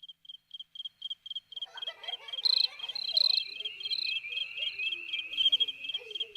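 Crickets chirping in an even rhythm of about four short, high chirps a second. A second insect's continuous trill joins about a second and a half in.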